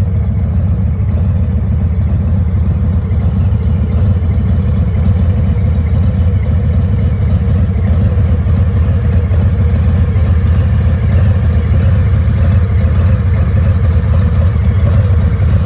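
Harley-Davidson Heritage Classic's Milwaukee-Eight 114 V-twin idling steadily through Rinehart aftermarket exhaust pipes, deep and even.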